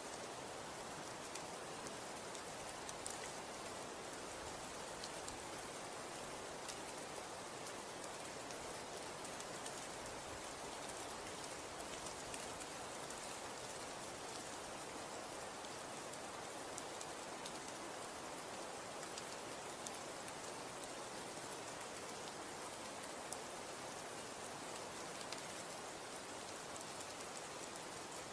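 Falling snow: a steady soft hiss with scattered faint ticks of flakes or pellets landing on a surface.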